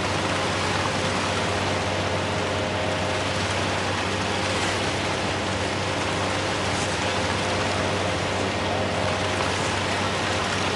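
Heavy machinery engine running steadily at constant speed under a continuous broad hiss.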